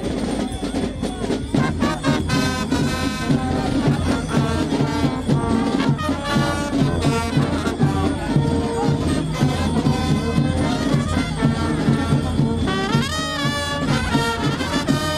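Music played on brass instruments, with many notes in quick melodic runs and a steady low accompaniment.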